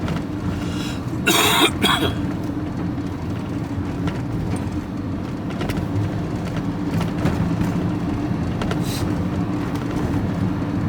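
Steady engine drone and road noise inside the cab of a moving vehicle. A short, loud cough comes about a second and a half in, from a driver full of cold.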